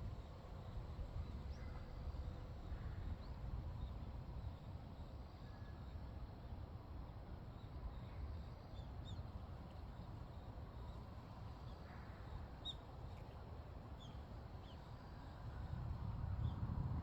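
Wind gusting over the microphone as an uneven low rumble that swells near the end, with faint scattered bird chirps.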